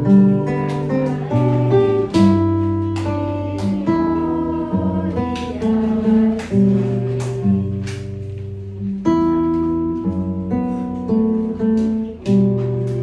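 Acoustic guitar playing a slow instrumental passage, chords strummed and plucked one after another at an even pace.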